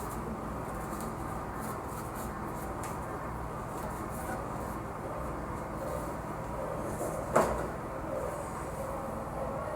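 Steady low background hum with faint scattered clicks of handling, and one sharp knock about seven seconds in, like a hard fitting bumped or set down.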